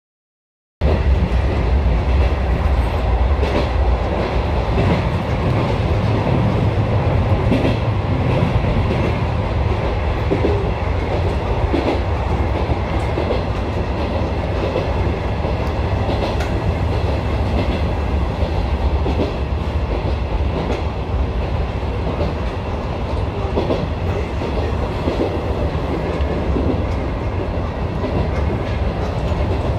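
Electric commuter train running steadily along the line, heard from inside the front cab. The sound cuts in abruptly about a second in.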